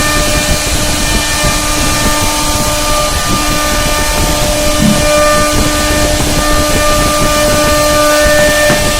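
CNC router carving wood: the spindle motor running steadily with a few held tones over the hiss of the bit cutting, some higher tones coming and going as the head moves.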